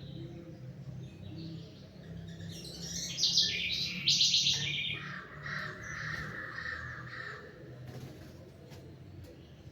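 Songbirds singing and chirping, the loudest a fast trilled phrase about three seconds in, followed by a lower, buzzier phrase that fades out near the eight-second mark.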